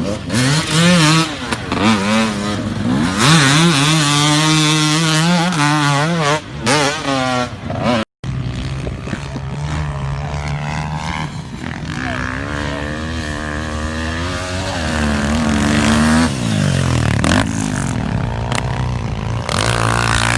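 Motocross dirt bike engines revving, the pitch rising and falling sharply with the throttle, then running steadier with further swells. The sound cuts out briefly about eight seconds in.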